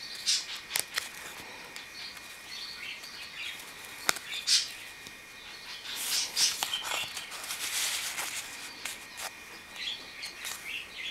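Small birds chirping in the background. Over it come a few sharp clicks in the first half, and a rustle a little past the middle, as sheets of patterned card are handled and slid on the table.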